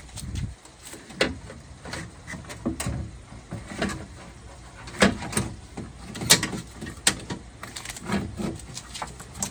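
Irregular clicks, knocks and rattles of the door latch and lock actuator assembly being worked loose inside a car door, plastic and metal parts knocking against the door shell. The loudest knocks come about halfway through and again a little later.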